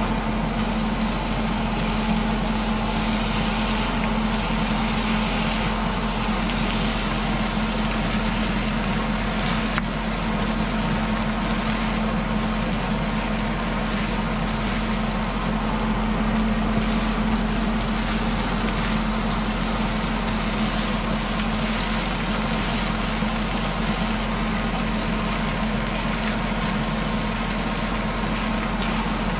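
Beef and chicken frying in a pan, with a steady sizzle over a constant low hum.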